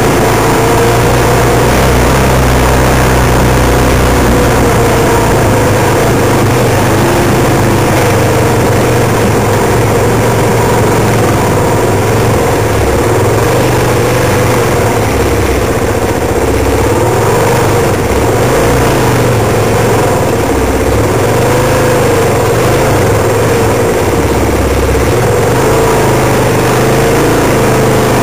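Off-road motorcycle engines running at a low, steady trail pace, their pitch wavering slightly as the throttle comes and goes.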